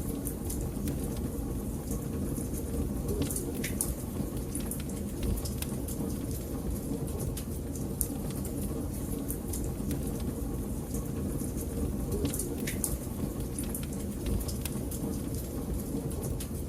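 Wood fire burning in a fireplace: a steady low rumble of flames with irregular sharp crackles and pops from the burning logs, a few louder snaps scattered through.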